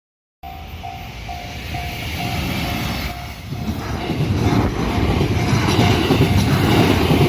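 Japanese level-crossing warning bell ringing a little over twice a second, fading under a JR Kobe Line train that approaches and passes. The train's rumble and wheel noise on the rails swell from about three and a half seconds in and stay loud.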